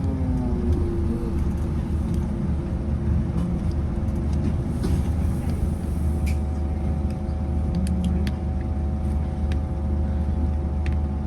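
Scania Citywide CK320UB bus engine and drivetrain, its pitch falling as it slows at the start, then running at a steady low drone with a few light clicks.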